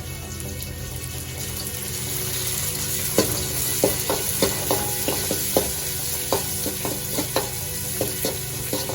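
Shallots and green chillies sizzling in hot groundnut oil in a pan, with short sharp clicks of stirring against the pan from about three seconds in.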